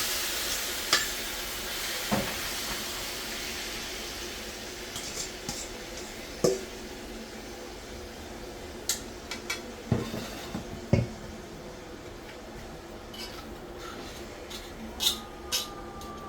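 Curried chicken backs and chicken feet sizzling in a hot, dry pot in their own fat, the sizzle loudest at the start and slowly dying down. Sharp metal clanks and knocks of a spoon and pot lid come at intervals throughout.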